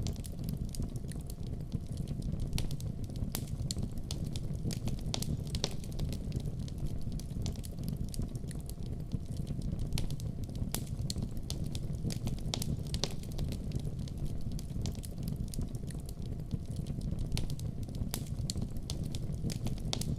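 Wood fire burning in a fireplace: a steady low roar of the flames with irregular sharp crackles and pops, a few each second.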